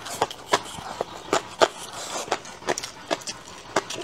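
Close-up mouth sounds of chewing a mouthful of stir-fried boneless chicken feet: wet smacks and crunches at an irregular pace, about two or three a second.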